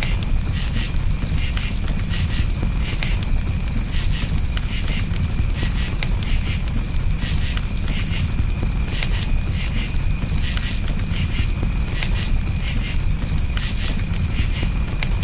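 Crickets chirping steadily over a crackling campfire, with frequent short pops and a low rumble from the fire.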